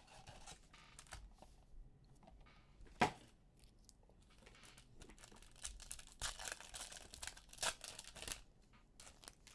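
Packaging of a blaster box of trading cards being torn open and crinkled by hand, with a sharp snap about three seconds in and a longer spell of crinkling and tearing near the end.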